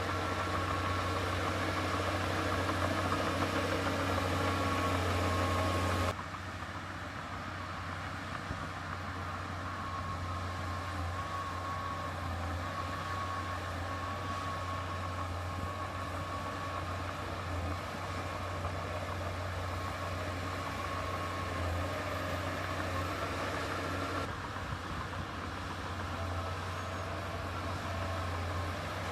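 Heavy earthmoving machine's diesel engine running steadily with a deep drone. The sound drops abruptly in level and tone about six seconds in and changes again suddenly near the end.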